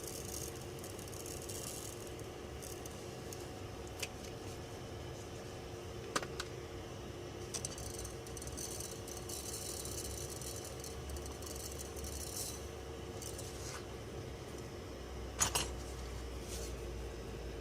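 Scattered small clicks and light scraping of hard objects on a workbench over a steady faint hum, with the loudest click about fifteen seconds in.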